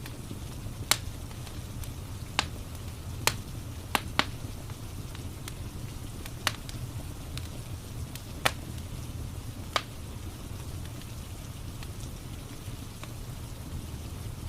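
Wood fire crackling: sharp, irregular pops, about eight of them, over a steady low rumble and the even hiss of rain.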